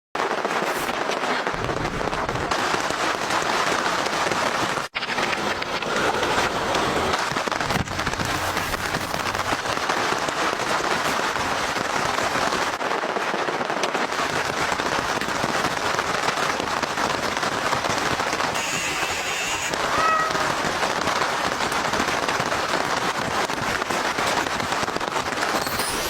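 Rain falling steadily, a dense even hiss of many drops, broken once by a very short gap about five seconds in.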